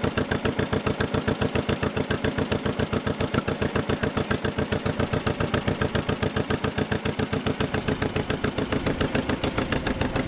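The two-cylinder engine of a 1955 John Deere 40S tractor running, with the typical two-cylinder 'popping' beat: a steady, evenly spaced train of exhaust beats that blurs a little near the end.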